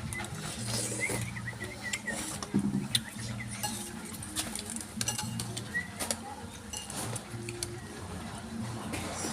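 Spoon and bowl clinking and scraping while soup is eaten, with scattered short clicks throughout.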